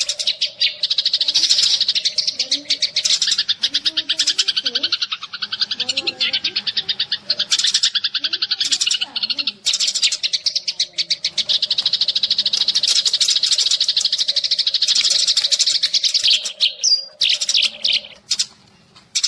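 Sparrows chirping in a fast, unbroken chatter of high calls, thinning out near the end. This is a sparrow lure call used to draw birds in for trapping.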